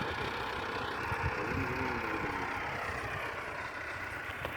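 Tractor engine idling steadily with a low, uneven rumble.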